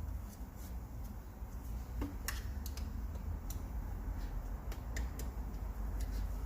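Light metallic clicks and taps at irregular intervals from tools and small engine parts being handled while fitting the injector clamps and bolts on a diesel cylinder head, over a steady low hum.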